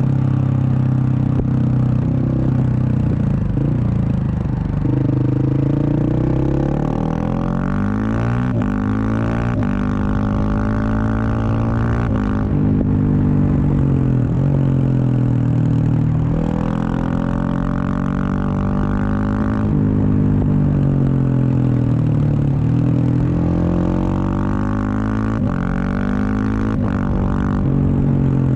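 2023 Husqvarna 701 Supermoto's single-cylinder engine through a Wings aftermarket exhaust while riding: revs rise and fall several times as it accelerates, changes gear and rolls off the throttle.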